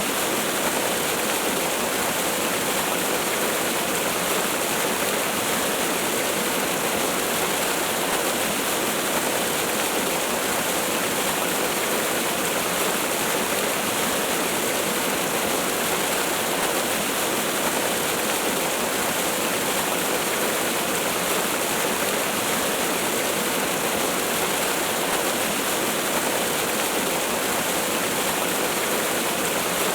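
Waterfall rushing in a steady, unbroken hiss of falling water with no changes.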